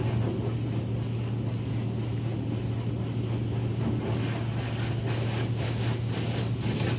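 Automatic car wash machinery running, heard from inside the car: a steady low hum with a haze of spraying, rushing noise over it.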